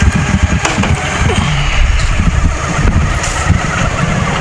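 Honda 750 motorcycle engine running, mixed with heavy low wind rumble on the microphone.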